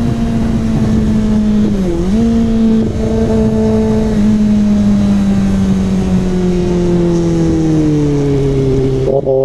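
Kawasaki ZX-6R inline-four with an SC Project CRT aftermarket exhaust, running at a steady high engine speed. The pitch dips briefly and recovers about two seconds in, then falls slowly over the last few seconds as the revs ease off.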